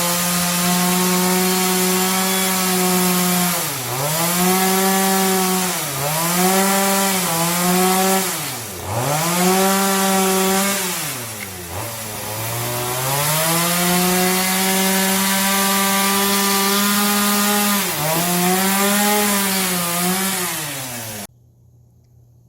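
Chainsaw running at high speed and cutting into wooden timber. Its pitch dips and recovers again and again as the chain bites into the wood under load. The sound cuts off abruptly near the end.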